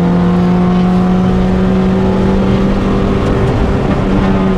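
Mitsubishi Colt rally car's engine, heard from inside the cabin, running loud at steady revs with an almost unchanging pitch.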